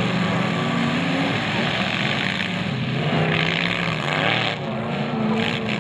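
Several demolition derby cars' engines running and revving together, the pitch rising and falling as they accelerate across the dirt, over a steady rush of noise.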